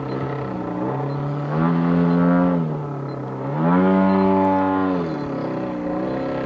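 Giant-scale RC plane engine running, its pitch and volume rising and falling twice as the throttle opens and closes or the plane passes, with a steadier lower drone in between.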